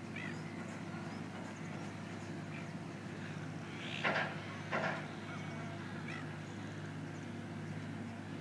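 Bird calls: two loud harsh calls close together near the middle, with a few short faint calls before and after, over a steady low mechanical hum.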